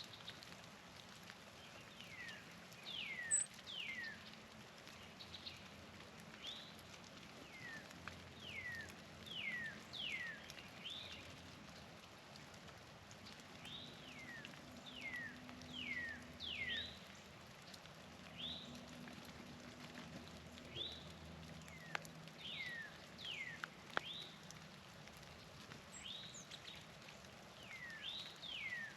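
Wild songbirds singing: many short clear whistled notes, each sliding down in pitch, often in pairs, scattered through, over a faint low steady background hum. Two faint clicks come near the end.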